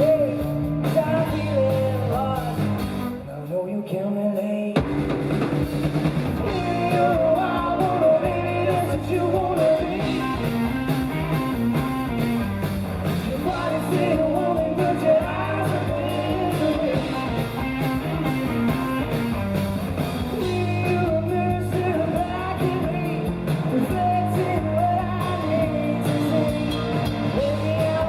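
A live rock band playing with a lead singer, drum kit and guitar. About three seconds in the drums drop out briefly, and the full band comes crashing back in about a second and a half later.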